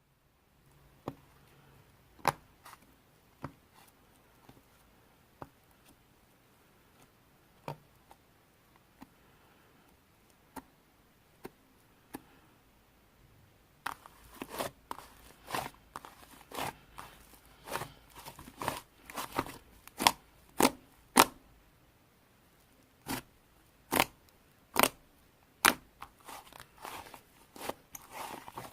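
Clay slime being handled, giving sharp popping clicks as air pockets burst. The pops are sparse at first and come thick and fast from about halfway through.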